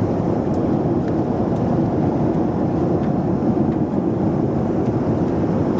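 Steady cabin noise inside a Boeing 737-400 in flight: an even, low drone from its CFM56-3 engines and the air streaming past the fuselage.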